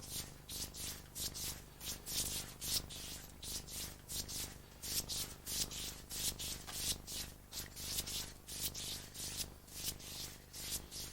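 A brush stroking pasted backing paper down onto the back of a painting, in repeated short brushing swishes at about two a second.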